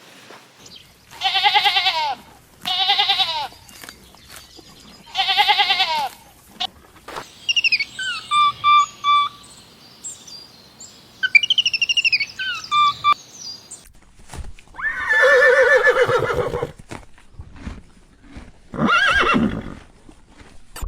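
A series of animal calls, one after another: three wavering calls early on, then a run of short, high, falling whistled notes, then two more drawn-out calls near the end.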